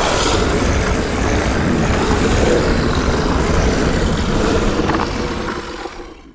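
Steady rumble and hiss of a car driving along a road, fading out near the end.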